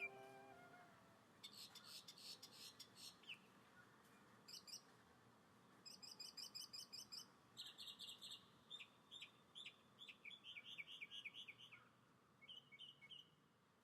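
Faint songbird calls: several series of rapid, high-pitched chirps and trills, each burst lasting a second or two with short pauses between them.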